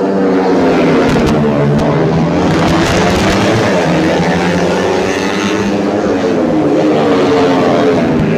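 Several tuned 130cc underbone racing motorcycles running at full throttle, their engine notes rising and falling in pitch as they pass one after another.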